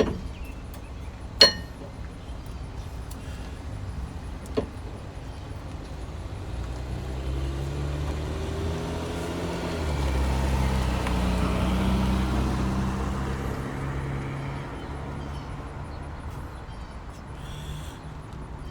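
A sharp ringing clink about a second and a half in and a lighter click a few seconds later, then a passing car's engine that swells and fades over several seconds.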